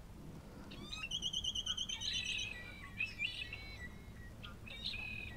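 Small songbird singing: a fast trill of even, high notes, about eight a second for a second and a half, followed by scattered chirps.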